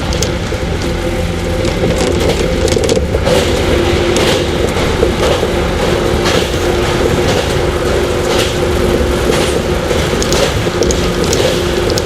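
JR 115-series electric train heard from inside motor car KuMoHa 115-318 while running: a steady low rumble with a traction-motor and gear whine holding one pitch, and repeated clicks and rattles from the wheels on the track.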